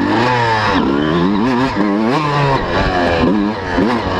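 125cc two-stroke motocross bike engines revving, their pitch rising and falling again and again as the throttle is worked.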